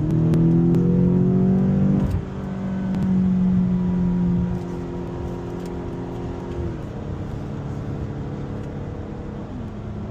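BMW X6M's twin-turbo V8 through a valved sport exhaust with the valves open, accelerating hard: the pitch climbs and drops sharply at an upshift about two seconds in, swells again briefly, then settles into a steadier, quieter cruise.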